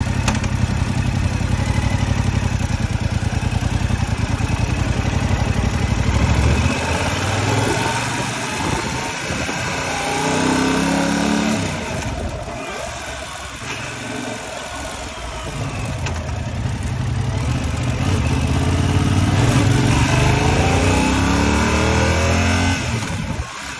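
Yamaha R7 motorcycle's 689 cc parallel-twin engine running loud with a steady low rumble at first, then revving up and down in pitch as it pulls through the gears. The level drops sharply near the end.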